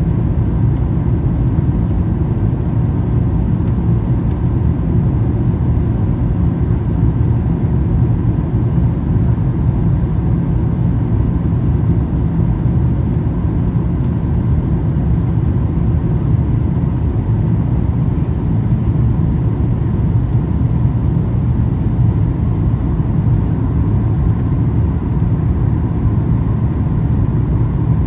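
Steady cabin noise of a Boeing 737 MAX 8 in flight: an even, deep rush of airflow and engine noise, with faint steady tones above it.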